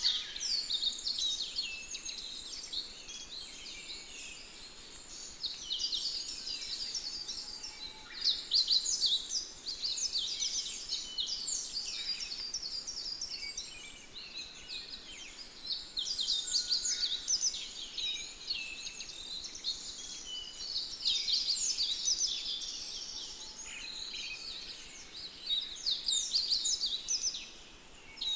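Many small birds chirping and twittering continuously, with quick high chirps overlapping throughout.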